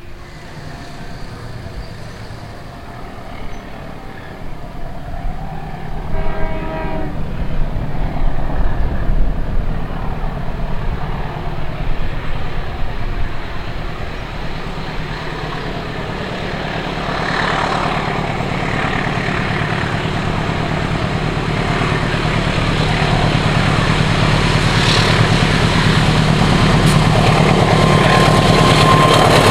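A diesel-hauled train approaching and growing steadily louder, its locomotive engine droning under the rising rumble and clatter of the wheels on the rails. A short horn blast sounds about six seconds in.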